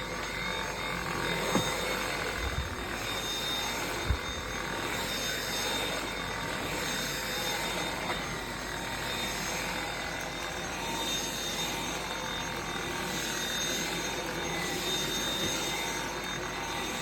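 Dyson V7 cordless stick vacuum running steadily on its minimum power setting: a steady high motor whine over an even rush of air, with a couple of light knocks in the first few seconds.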